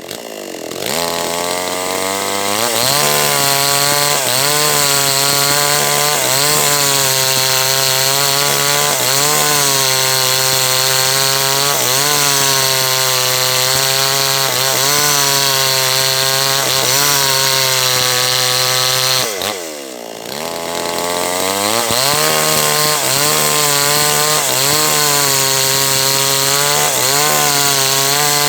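Small two-stroke gasoline chainsaw cutting a large teak log at high revs, its pitch wavering as the chain bites into the wood. About two-thirds of the way through, the engine drops off towards idle and then revs back up for the next cut.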